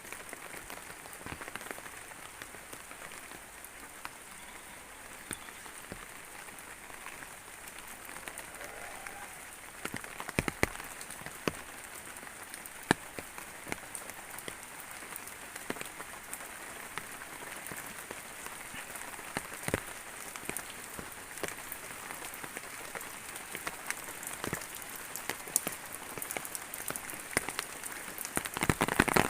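Steady rain falling, with many sharp, irregular drip clicks of raindrops striking nearby surfaces.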